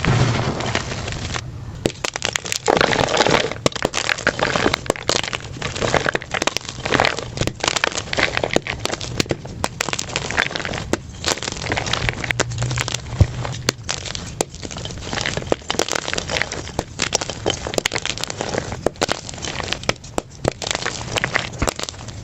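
Blocks of plain gym chalk crushed by hand, played back at double speed. It is a dense, unbroken run of sharp crunches and crackles.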